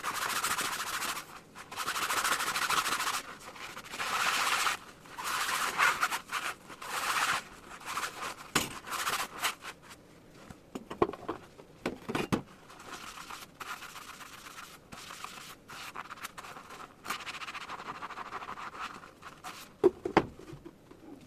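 Dishes being washed by hand at a kitchen sink: repeated bursts of scrubbing noise for the first several seconds, then quieter handling with a few sharp knocks of dishes near the end.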